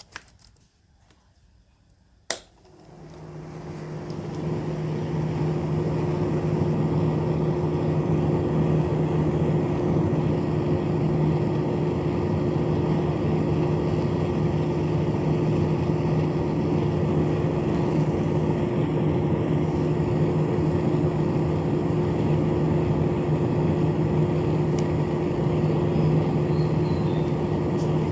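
A click, then a small battery-powered fan motor, salvaged from a broken electric fan, spins up over a couple of seconds and runs with a steady hum.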